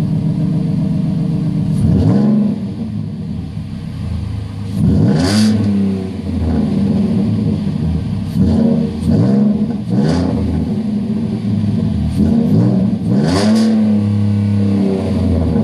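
2013 Ford F-150's 3.7-litre V6 through a dual exhaust with a Flowmaster Super 40 muffler, idling and then revved again and again, the pitch climbing and dropping back each time, with a longer rev near the end.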